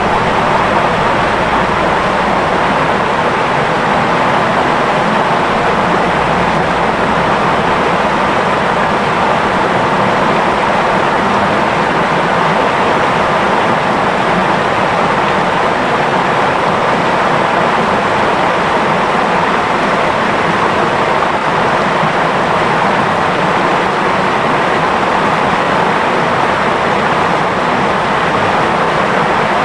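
A clear river babbling and flowing steadily, with light drizzle falling. The sound is a loud, even rush that stays the same throughout.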